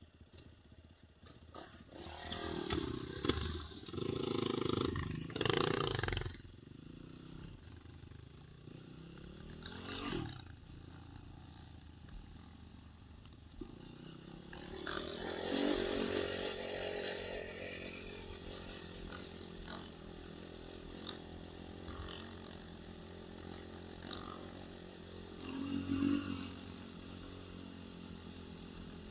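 Enduro motorcycle engines revving as the bikes ride off, one passing with a falling pitch about ten seconds in. From about halfway a motorcycle engine runs steadily close by at low revs, with a brief rev near the end.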